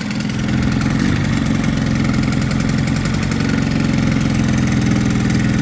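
1980s Mariner (Yamaha) 28 hp twin-cylinder two-stroke outboard running on its bottom cylinder only, growing louder over the first half second and then holding steady. The top cylinder fires only now and then: the sign of an ignition fault with intermittent spark to the top cylinder.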